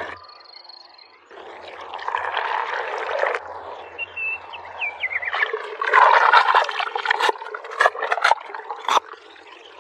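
Oil sizzling as tofu fries in a stone wok, then a cleaver chopping on a stone slab with a few sharp chops near the end. Birds chirp in between.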